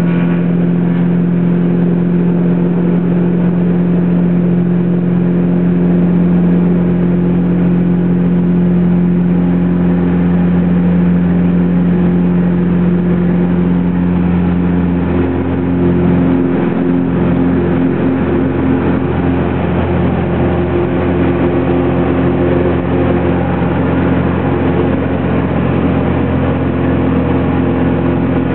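Cessna 182's six-cylinder Continental piston engine and propeller running at takeoff power, heard from inside the cabin as a loud, steady drone. About halfway through the tone shifts.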